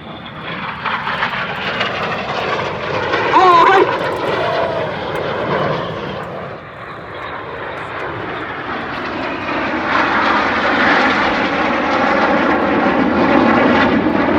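BAE Hawk jet trainers of the Red Arrows flying past, a broad jet noise with slowly sweeping tones that builds, eases off about halfway, and swells again to its loudest near the end.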